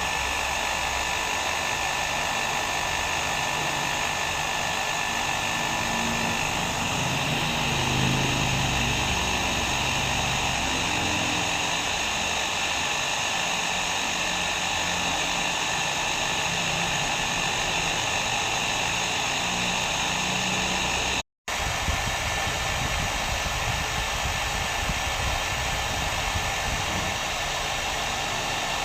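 Hair dryer blowing steadily, an even rushing hiss with a faint whine in it. About two-thirds of the way through it drops out to silence for a split second, then carries on unchanged.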